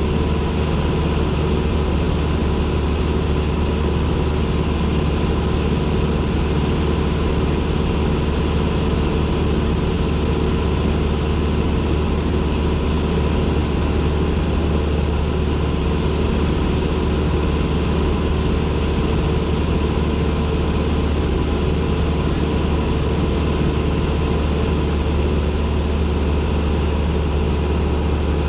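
Cessna 172N's four-cylinder Lycoming engine and propeller running at steady power, a constant drone heard from inside the cockpit.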